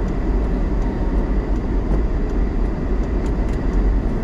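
Steady low rumble of a vehicle driving, engine and road noise running without a break.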